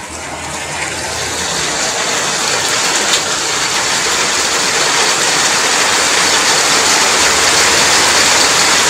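Heavy rain pouring down, steadily growing louder over the first several seconds and then holding steady.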